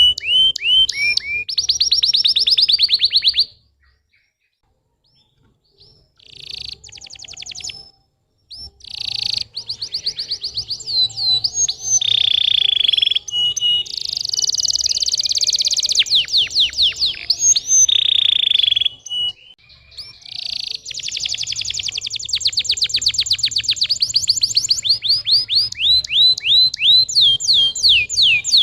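Domestic canary singing a long song of fast trills, many quick sweeping notes a second, with a few held whistled notes between them; the song breaks off for a couple of seconds about four seconds in. It is a lure song played to stimulate young canaries to sing.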